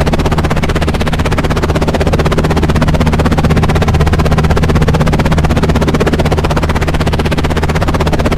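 Helicopter running steadily, its rotor blades beating in a rapid, even chop over a steady low drone.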